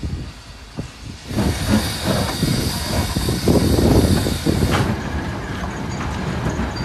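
Train pulling out of a station: its running noise swells about a second in, with a hiss over a low rumble, and eases a little near the end.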